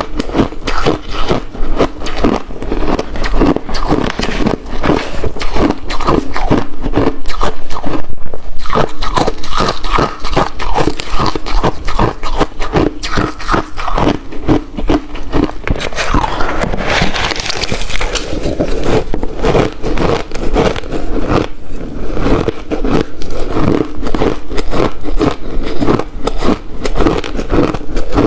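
Close-miked crunching and chewing of ice: a dense, rapid run of cracks and crunches as the ice is bitten and ground between the teeth. About seventeen seconds in there is a brief hissing scrape.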